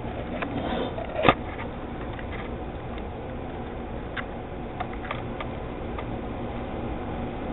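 A few scattered light clicks and taps over a steady background hum, with one louder tap about a second in.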